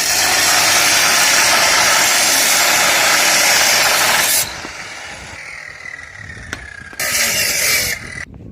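A workshop tool running in two bursts of loud, even rushing noise: one of about four and a half seconds, then a shorter one of under a second near the end.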